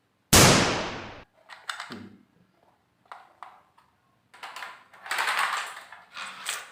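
A toy gun fires once: a single loud blast that cuts in suddenly and fades over about a second. Plastic clicks and knocks from handling the toy follow, then a few softer rushing bursts near the end.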